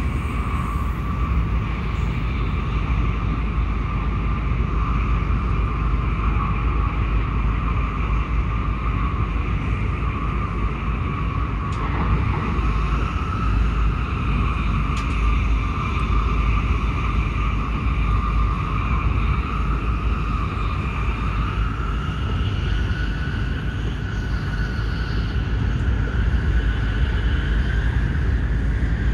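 Inside a passenger car of an N700S Shinkansen running at speed: a steady deep rumble with a high hum over it, which rises a little in pitch about twenty seconds in.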